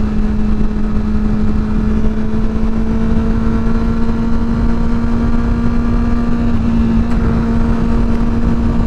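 Motorcycle engine running at a steady cruise, holding an even pitch, with wind and road rumble on a helmet-mounted microphone.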